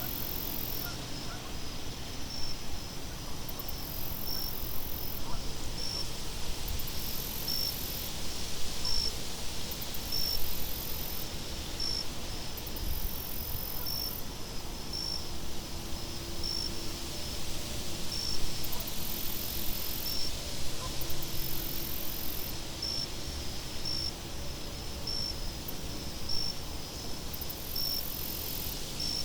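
Night-time nature ambience: insects chirping with a short high pulse about once a second, over a low wind rumble.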